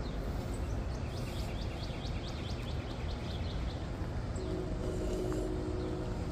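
A songbird singing a quick run of about a dozen short falling chirps over a steady low outdoor rumble. A low steady hum comes in about four seconds in.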